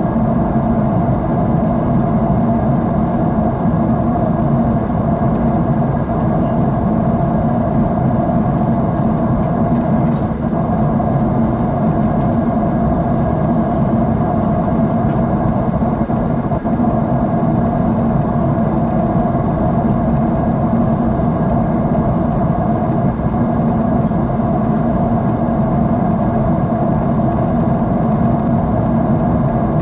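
Steady drone of a jet airliner's engines and airflow heard inside the cabin, an even rushing noise with a low hum and a higher steady tone running through it.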